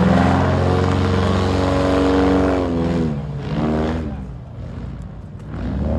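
Airboat engine and propeller running hard, then dropping in pitch about three seconds in and easing off before revving up again near the end.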